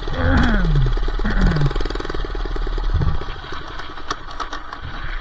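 Minibike's small four-stroke engine running rough with no muffler. Its pitch falls away twice in the first two seconds and it runs quieter after about three and a half seconds. The engine barely stays running off throttle, which the rider puts down to the missing muffler.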